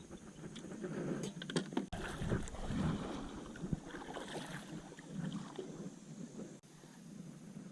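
Kayak paddle strokes dipping and splashing in the water, with a few sharp clicks about a second and a half in.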